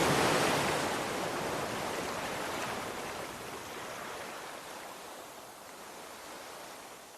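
Sea waves on a shore: a wave breaks just at the start and its wash fades away steadily over several seconds.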